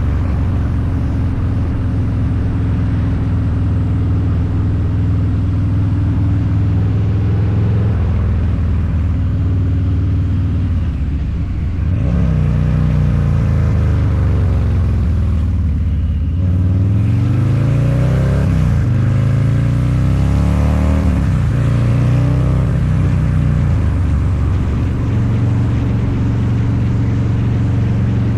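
Harley-Davidson Low Rider's 129-cubic-inch V-twin through a Two Brothers Racing exhaust, riding on the road. It runs at a steady note, dips briefly about twelve seconds in, then rises and falls in pitch several times as the throttle is worked, and settles back to a steady note near the end.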